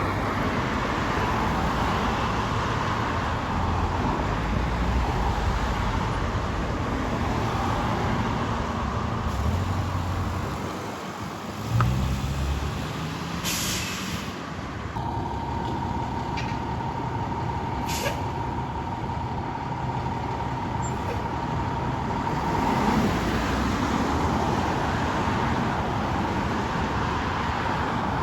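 Fire apparatus with its diesel engine running steadily, revving up once partway through, and short hisses of air brakes.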